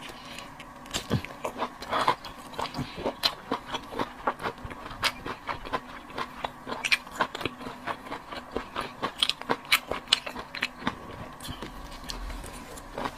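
Close-miked chewing and biting of seafood, with many irregular sharp crunches and wet crackles.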